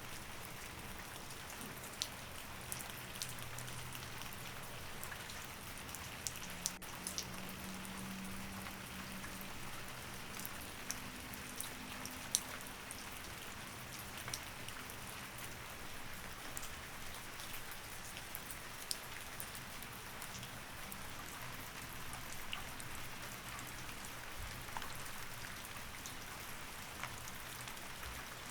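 Steady rain, an even hiss with many separate drops ticking sharply on a surface.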